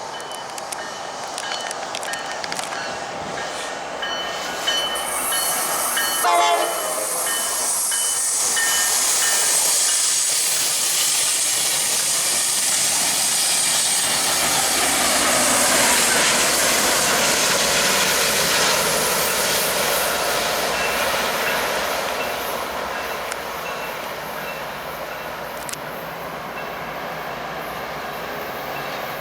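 Train horn sounding over the first few seconds, then a train passing close by, its wheels on the rails growing loud toward the middle and easing off near the end.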